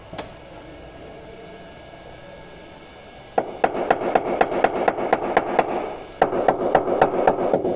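A hammer tapping car-body sheet metal in panel beating: quick, even strikes about four a second, each ringing on, starting about three seconds in with a brief pause near the end.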